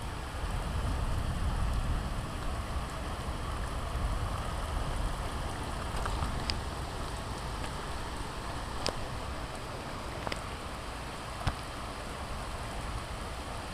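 Steady rain falling during a thunderstorm, with a low rumble in the first few seconds and a few separate sharp drip ticks later on.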